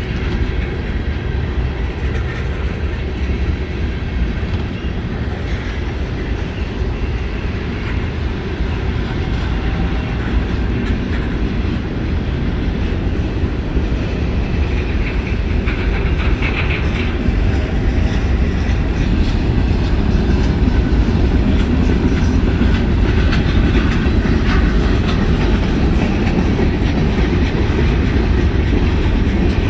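CSX mixed freight train's cars rolling past at close range: a steady heavy rumble of steel wheels on rail with continuous clatter, growing slightly louder toward the end.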